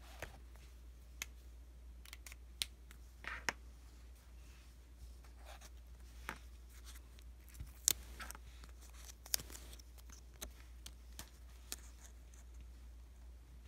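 Stickers being peeled and pressed onto paper, heard close up: scattered light clicks and taps with a few short crinkly rustles, irregularly spaced, over a low steady hum.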